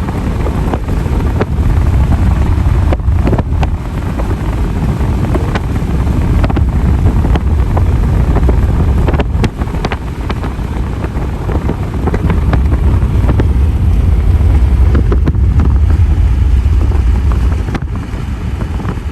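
Wind buffeting the microphone: a heavy low rumble that swells and eases in gusts, with a rushing hiss and a few brief clicks.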